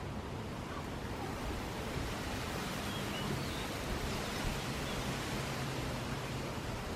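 Steady seaside wind, a hiss that swells slightly in the middle, with waves on the shore and wind-stirred palm fronds blended into it.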